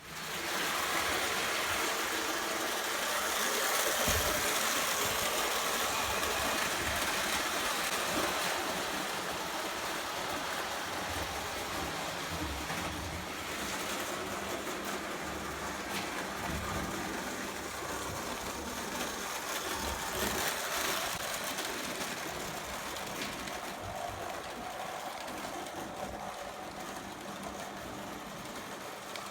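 Prewar Lionel O gauge toy train running steadily on its track, the motor and wheels giving a continuous mechanical run that gets a little quieter towards the end.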